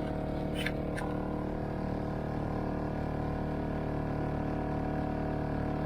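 Small outboard motor running steadily at cruising speed, with two short clicks about half a second to a second in.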